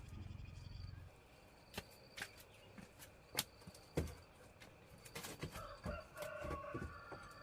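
A rooster crowing once, faintly, in the second half, one drawn-out call of about two seconds. Scattered sharp knocks come before it.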